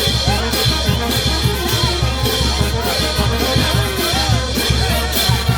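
A band playing music, with a drum kit keeping a steady beat under the melody.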